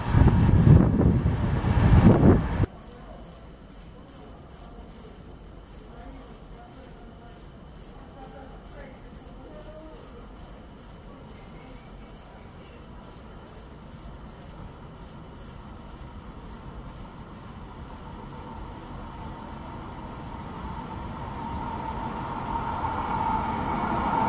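A train runs loudly past and cuts off suddenly about two and a half seconds in. Then a cricket chirps steadily, about two high chirps a second, until a second train approaching with a rising hum drowns it out near the end.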